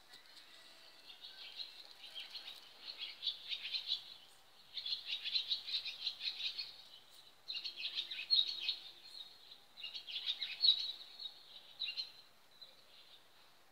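Birds calling before dawn in chattering bursts of a second or two, one after another with short pauses between.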